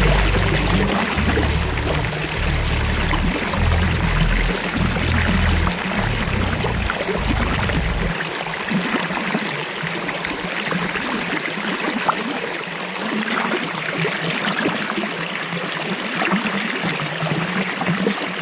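Running water of a stream, a steady even rush. A low rumble under it stops abruptly about halfway through.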